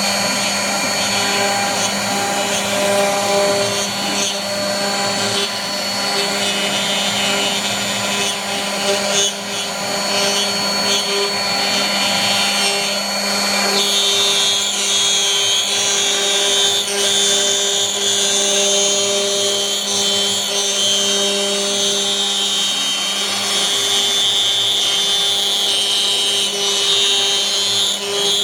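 CNC router spindle running steadily with a high whine as it cuts into wood; the whine's pitch pattern shifts about halfway through.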